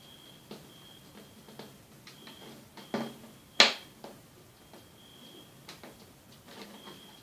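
Small clicks and taps of plastic netbook parts being handled and fitted during reassembly, with two sharper clicks about three seconds in, the second the loudest.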